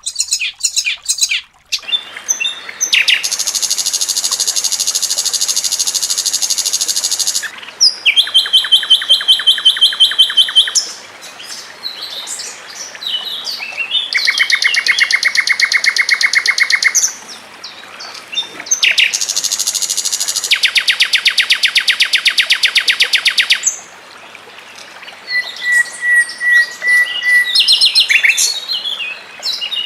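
Songbird song made of fast trills of evenly repeated notes. Each trill lasts a few seconds and shifts between higher and lower pitches, with short chirps in between.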